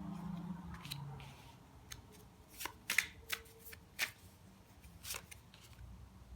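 Tarot cards being handled: a handful of short, sharp card snaps and slaps spread irregularly over several seconds.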